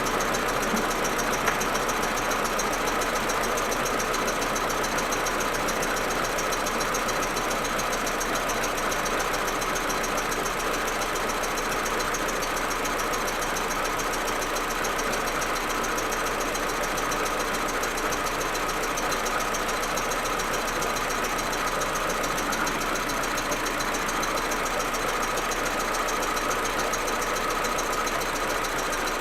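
Audi A4 1.8T turbocharged four-cylinder engine idling steadily. This is the rough, misfiring idle the owner gets when the engine is cold, which new plugs and coils have not cured.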